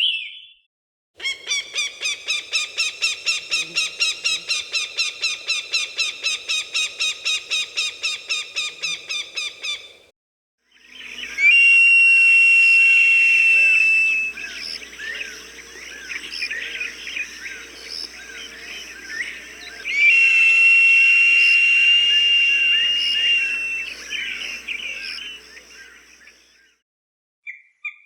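Recorded hawk calls. First a fast series of repeated sharp cries, about four or five a second, for roughly nine seconds. After a brief gap come two long, steady, high-pitched screams of about three seconds each, with smaller bird calls chattering around them.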